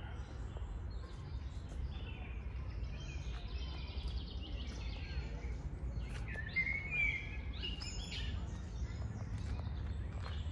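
Songbirds chirping and singing in a park, with one louder bird call about six and a half seconds in, over a steady low rumble.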